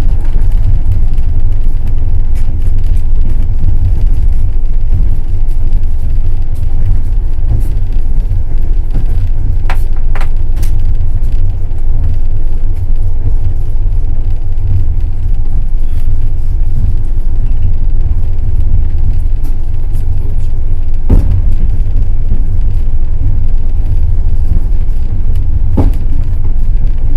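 Passenger train running: a loud, steady low rumble of wheels on the track, with a few sharp knocks of the wheels over rail joints, about ten seconds in, about twenty-one seconds in and near the end.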